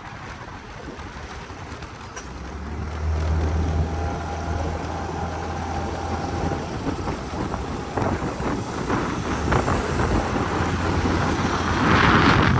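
A vehicle engine running steadily under wind noise on the microphone. The engine hum comes up about two and a half seconds in.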